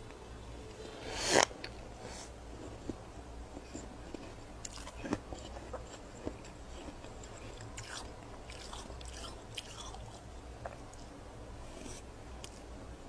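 A person biting into a mouthful of scraped freezer frost, with one loud crunch about a second in, then chewing it with soft scattered crackles.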